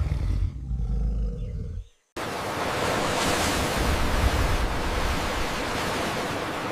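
A deep animal roar that cuts off sharply about two seconds in. After a moment of silence a steady rushing noise follows.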